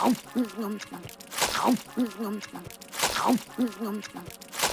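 Cartoon girl chewing an overstuffed mouthful of meatball sub: a wet chomp followed by muffled, full-mouthed humming grunts, repeating about every second and a half.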